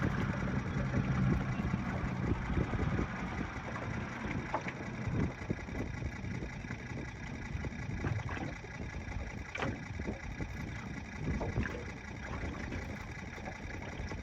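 Jon boat's motor humming steadily for about the first three seconds, then fading under a constant wind-and-water haze, with a few sharp knocks scattered through.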